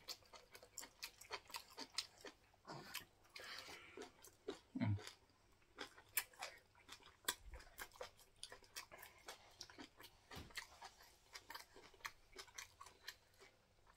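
Close-miked chewing and mouth sounds of people eating fufu and waterleaf soup by hand: a steady string of soft smacks and clicks. A brief low hum of a voice comes about five seconds in.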